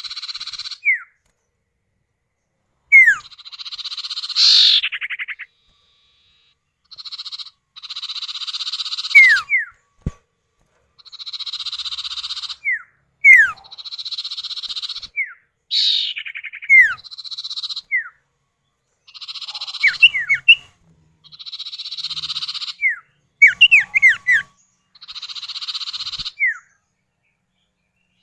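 Common iora (cipoh or sirtu), male and female calling back and forth. Raspy, buzzing phrases a second or two long alternate with sharp, quick down-slurred whistles, with short pauses between.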